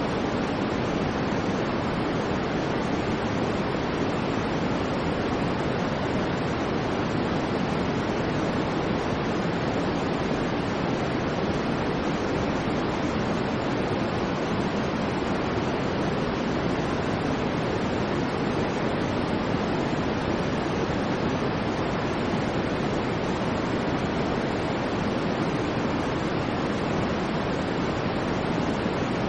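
Steady, unbroken white noise: an even rushing hiss with its weight in the lower tones, never changing in level.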